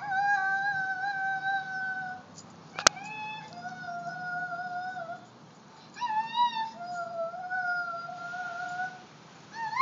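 High wordless voice holding four long notes in turn, each starting with an upward scoop and then held steady for one to two seconds. A single sharp click comes a little under three seconds in.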